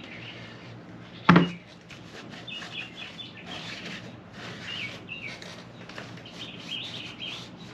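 Small birds chirping in short repeated calls, over a soft rubbing of a rag wiping down the differential housing faces. One sharp knock about a second in is the loudest sound.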